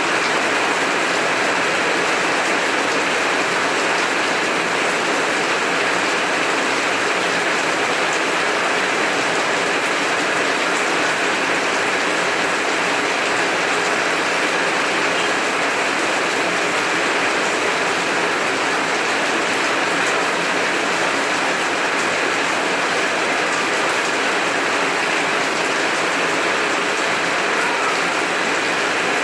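Heavy rain falling steadily, an even, continuous hiss with no thunder in it.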